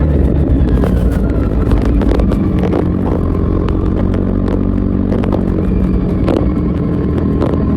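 Kawasaki Z900's inline-four engine through an Akrapovic full exhaust system, running at fairly steady revs while riding, with scattered sharp clicks.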